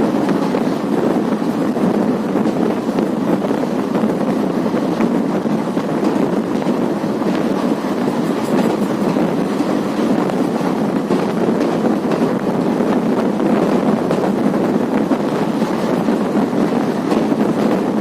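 Steady running noise of the Varanasi Intercity Express passenger train moving along the track, heard from on board, with faint clicks now and then.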